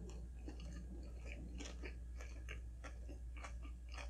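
Close-miked chewing of a mouthful of double quarter pounder with cheese: a quick run of small wet mouth clicks and smacks over a low steady hum.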